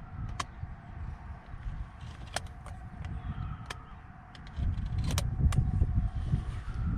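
Wind rumbling on the microphone, getting louder about two-thirds through, with a few sharp knocks at irregular intervals.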